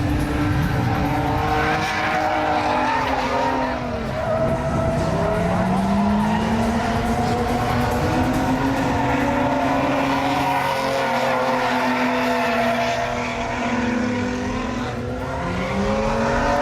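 Drift cars' engines revving, their pitch rising and falling repeatedly as the cars slide, with tyres squealing.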